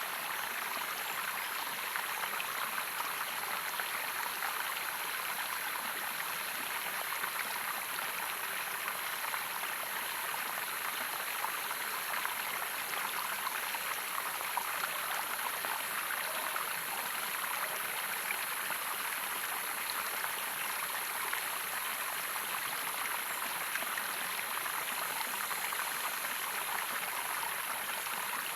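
Running water of a small stream or cascade, a steady rushing and splashing that does not let up.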